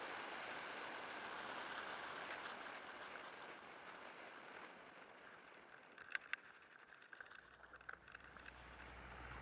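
Steady rushing vehicle noise that fades away over several seconds, with a few sharp clicks around six seconds in, then a low hum building near the end as something approaches.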